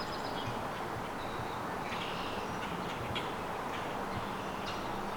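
Faint, scattered short bird calls over a steady outdoor hiss.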